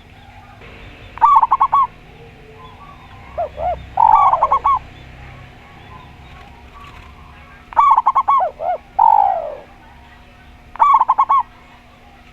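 Spotted dove and zebra dove cooing in four bouts: quick runs of short repeated notes, some with lower notes or a drawn-out falling coo.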